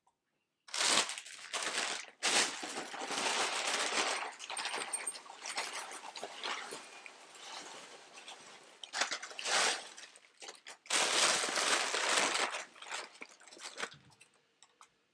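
Clear plastic bag of cereal crinkling and rustling as it is handled, opened and tipped, with cereal pouring into a bowl; the crinkling comes in several loud spells and fades out near the end.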